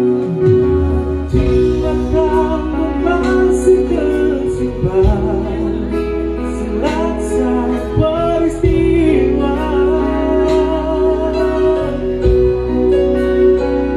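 A band playing a slow song, with a singer's voice carrying a wavering melody over sustained accompaniment and a steady bass line.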